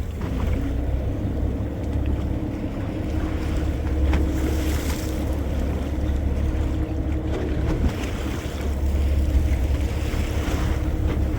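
Steady low rumble of a boat's engine, with wind on the microphone and the wash of water.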